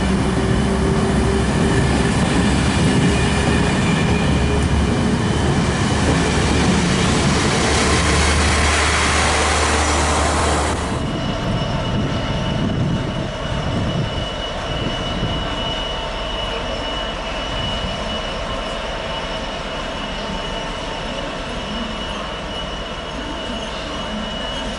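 A freight train passing close by: a loud, heavy rumble with a deep hum for about the first ten seconds, which then drops off suddenly and gives way to lighter rolling wagon noise with a steady high-pitched wheel squeal.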